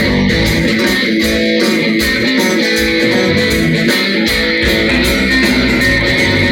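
Country-rock band playing an instrumental break led by electric guitar, over bass and a steady drum beat.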